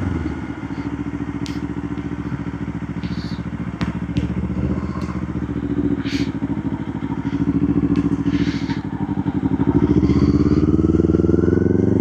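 Motorcycle engine ticking over at low revs with a steady, even pulse, then revving up and pulling away near the end. A few light clicks sound over it.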